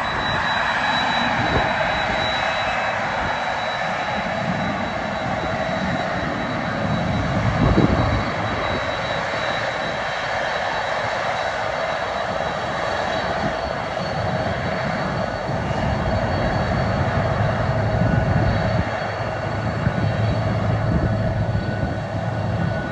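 Jet airliner engines running: a steady roar with a high whine held on a few steady tones.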